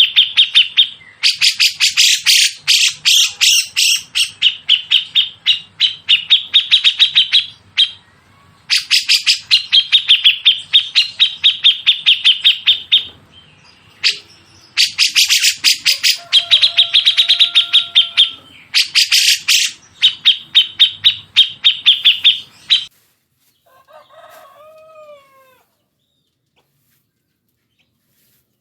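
Songbird giving a harsh, rapid-fire 'nembak' song: bursts several seconds long of sharp chipping notes, about five a second, repeated with short gaps. A couple of softer, lower whistled notes come near the end before it stops.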